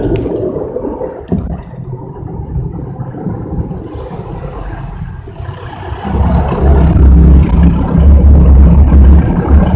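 Automatic car wash machinery working over the car, heard from inside the cabin: a steady rumble with a rush of spray that grows from about four seconds in, then a much louder deep rumble from about six seconds in.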